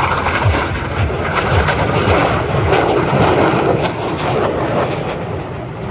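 Airplane engine noise from aerobatic aircraft passing during an opposing-roll manoeuvre. It swells about two to three seconds in and eases off near the end.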